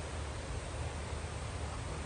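Steady rushing background noise with a low rumble underneath, even throughout and with no distinct events.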